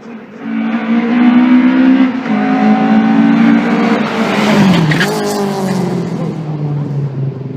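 Classic racing car's engine at high revs under hard acceleration, with a gear change about two seconds in. It passes close around four to five seconds in, where the pitch dips and rises again, then carries on at a lower pitch.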